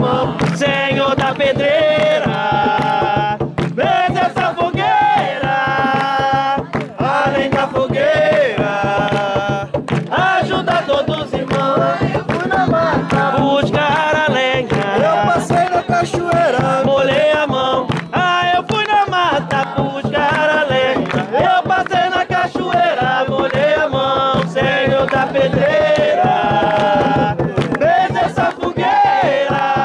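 Voices singing a jongo song over steady drum beats.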